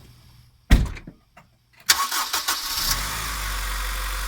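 A loud thump, then the 2004 Honda Civic Si's four-cylinder engine cranks for about a second, catches and settles into a steady idle after its fuel vapor canister purge valve has been replaced.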